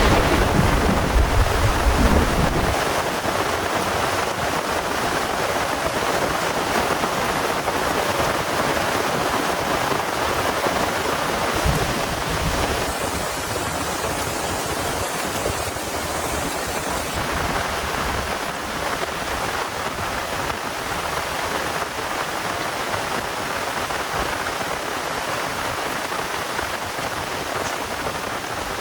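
Heavy rain falling steadily during a thunderstorm, with a low rumble of thunder in the first couple of seconds and a short low thud about twelve seconds in.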